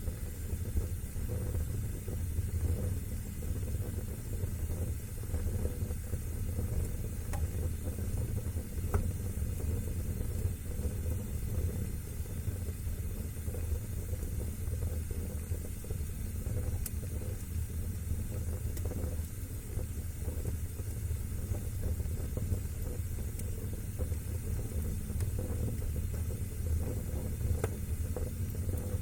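Fire burning in a fireplace: a steady low rumble and hiss of the flames, with a few faint scattered crackles and pops.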